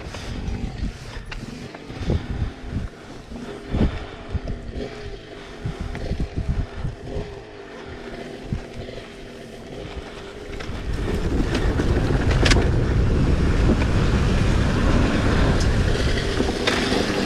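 Dirt bike engine lugging at low revs with irregular low thumps and knocks. About eleven seconds in it gets louder and runs steadily under throttle.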